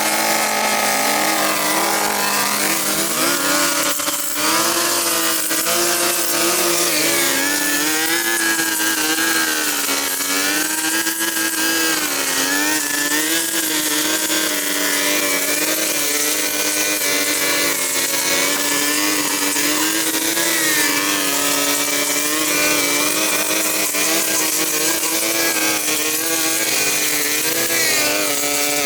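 Small petrol engine of a garden power tool running at high speed, its pitch wavering up and down with the load.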